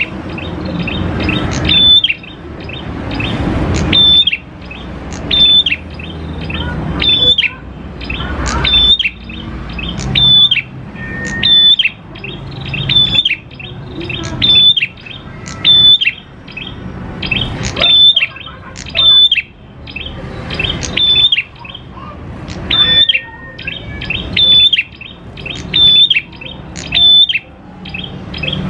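Prenjak klawu, a small songbird, singing in a recorded song of repeated calls. Each call is a sharp high note that drops at the end, about one every two seconds, each led in by a building raspy sound.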